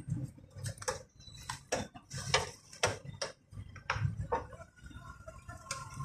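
A string of irregular light clicks and knocks, roughly one or two a second, like small objects being handled, with a faint steady tone coming in near the end.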